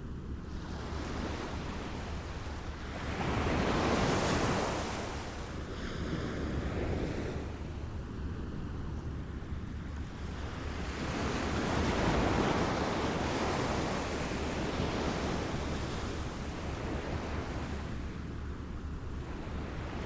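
Small waves lapping at the shore, a continuous wash that swells and fades, with two larger surges about four seconds and twelve seconds in.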